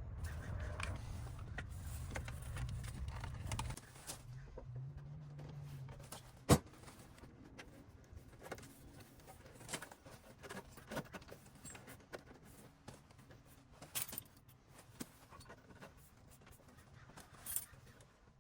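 A low rumble for the first few seconds, then scattered light clicks and metallic clinks like keys or small tools being handled; a single sharp click about six and a half seconds in is the loudest.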